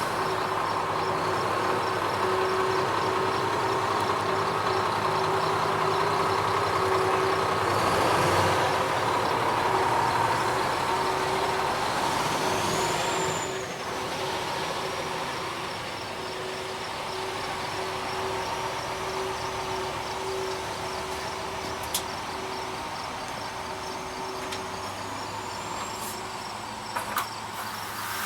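Heavy truck's diesel engine running steadily, with a thin high whine that rises and falls partway through and a single sharp click near the end.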